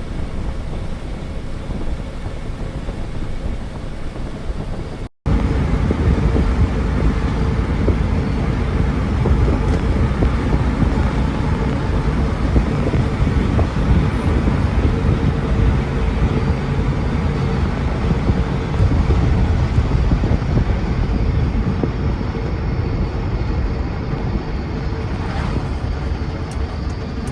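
2008 Ford Edge being driven: steady road and drivetrain noise with a faint steady whine, the noise the uploader puts down to a bad transfer case. The sound cuts out for an instant about five seconds in and comes back louder.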